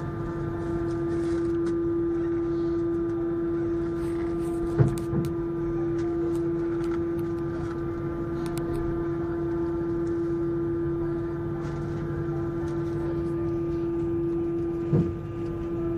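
Airbus A321 cabin noise in flight: a steady drone of engine and airflow with one strong held tone. Two brief knocks, one about five seconds in and one near the end.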